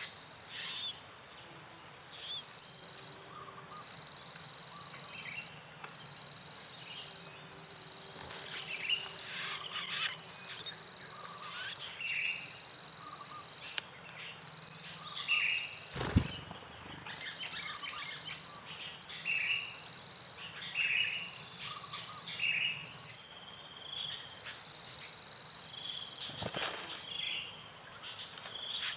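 Steady, high-pitched insect chorus with a pulsing edge, joined by scattered short bird chirps; a single sharp click about 16 seconds in.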